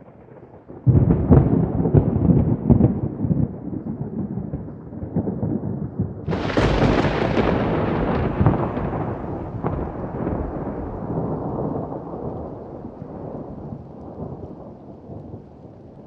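Thunder: a loud, crackling rumble breaks in about a second in, a second, sharper clap hits about six seconds in, and the rumble slowly dies away.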